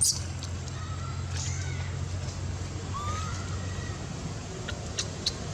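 A baby monkey gives a few faint, short squeaky calls that rise and fall in pitch, over a steady low hum, with a few sharp clicks near the start and end.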